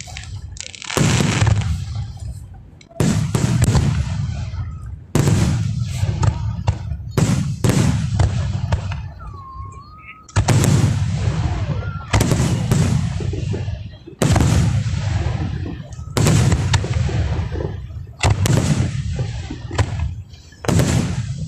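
Fireworks display: a string of aerial bursts about every one to two seconds, about a dozen in all. Each is a sharp boom that trails off in a low rumble and crackle over a second or so.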